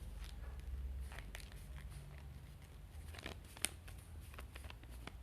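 A sheet of paper being folded and creased by hand for a paper airplane: soft, scattered rustles and crinkles, with one sharp tick about three and a half seconds in.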